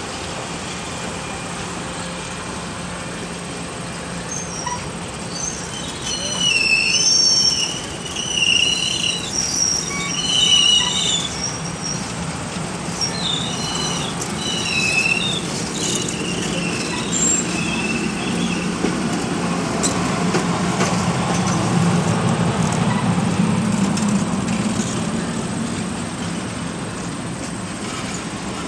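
Special passenger train of private railroad cars rolling past, its steel wheels giving high, wavering squeals for about ten seconds starting about six seconds in. Under the squeals a low rumble from the cars builds to its loudest about two-thirds of the way through, then eases.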